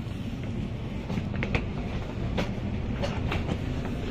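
Low, steady rumble of a high-speed train heard from inside the carriage, with a few irregular sharp clacks.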